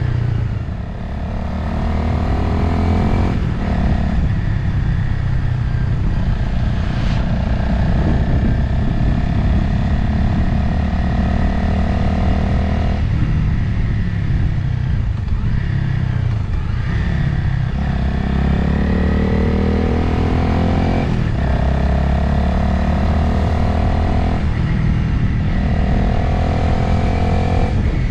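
Motorcycle engine running under way, with wind rushing past. The engine note rises and drops back several times as the rider shifts gears.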